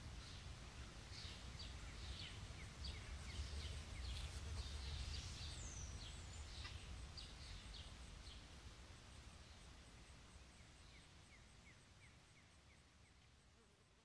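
Small birds chirping in the background, many short quick chirps, thickest in the first half, over a low steady rumble; the sound fades out near the end.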